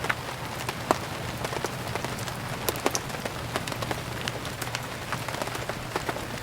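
Steady rain falling, with irregular sharp pops and crackles of a wood fire burning, a few each second.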